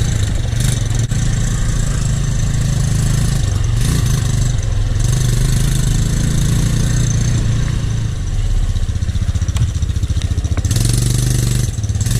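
Dirt bike engine running while riding on a trail, its note shifting as the throttle changes.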